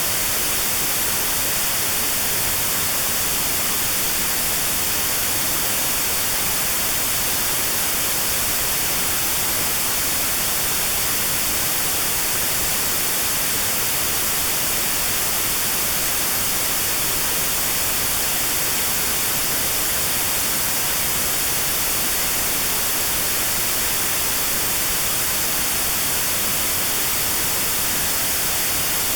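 Steady white noise with a narrow band cut out around 4 kHz: notched sound therapy aimed at 4 kHz tinnitus. The hiss is even and unchanging.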